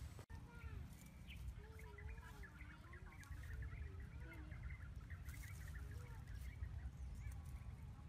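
Birds chirping and calling over a steady low rumble, with a few brief rustles of leaves.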